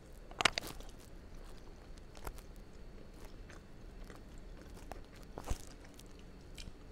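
A person bites into a vegan meatball about half a second in, then chews it with a few soft mouth clicks.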